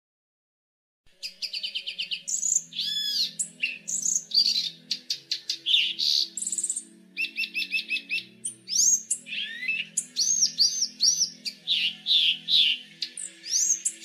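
A songbird singing a fast, varied run of chirps, trills and whistled notes, starting abruptly about a second in, over soft background music.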